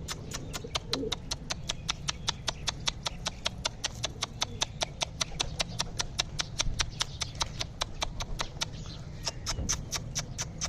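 Pigeons pecking grain at feeding time: a steady run of sharp, evenly spaced clicks, about five a second.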